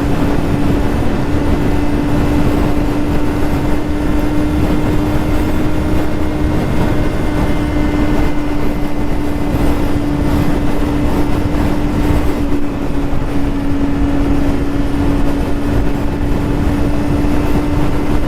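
Yamaha YZF-R6 600cc inline-four sportbike engine running under way, holding one steady pitch throughout, with wind rushing over the microphone.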